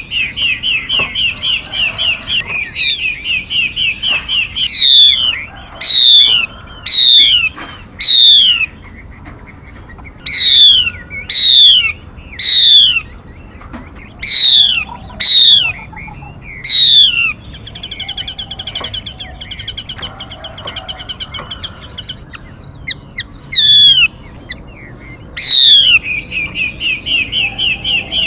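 Calls of a female mi bird, a songbird: loud, sharply falling notes about one a second, alternating with runs of fast, evenly repeated chirps that make a chattering trill.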